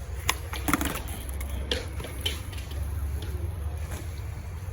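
Bike wheels rolling on skatepark concrete, a steady low rumble with several sharp clacks in the first half.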